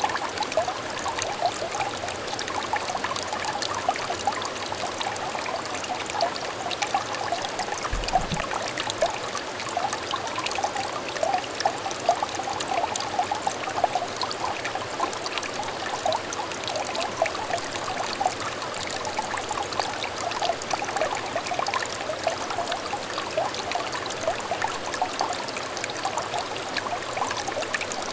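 Small clear stream trickling and babbling, a steady flow dotted with many small bubbling notes.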